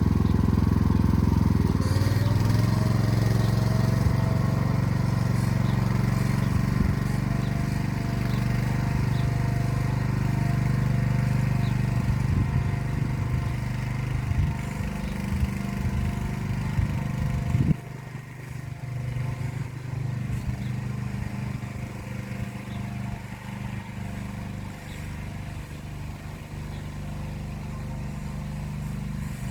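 Motor Sich walk-behind tractor engine running steadily under load while pulling an arrow-type hiller along the rows. About eighteen seconds in the sound drops abruptly to a lower level and carries on more quietly.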